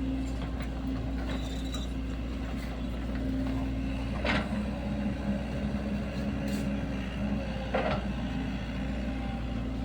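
Sany SY75 mini excavator's diesel engine running steadily while it works, its note shifting about four seconds in, with two short knocks about four and eight seconds in.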